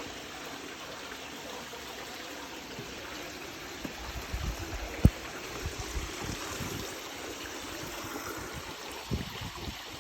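Meltwater from thawing snow and ice trickling and dripping as a steady hiss. From about four seconds in there are low bumps, and about five seconds in a single sharp click.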